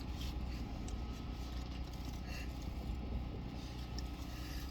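Steady low hum inside a car's cabin, a car engine idling, with a few faint rustles and ticks.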